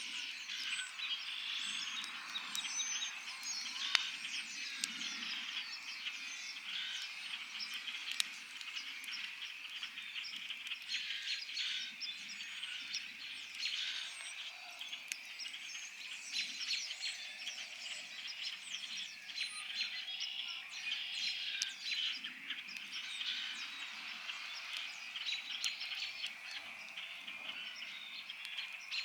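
Wood campfire crackling with frequent sharp pops, the two loudest about four and eight seconds in, over a dense, continuous spring evening chorus of calling birds.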